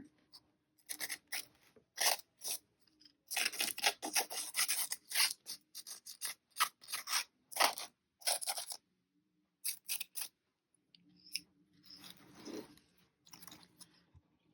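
Paintbrush brushing gold onto cardboard: a run of short brush strokes, closely spaced for the first several seconds, then fewer and fainter near the end.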